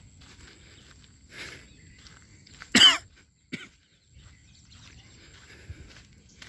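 A person coughs loudly once about three seconds in, then gives a second, shorter cough about half a second later.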